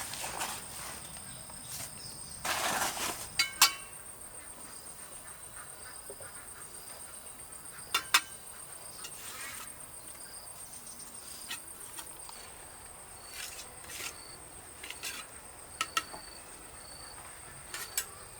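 Insects trilling steadily on one high note, with a second, chirping insect joining about halfway through at roughly one chirp a second. Scattered sharp knocks and a brief scrape about two and a half seconds in.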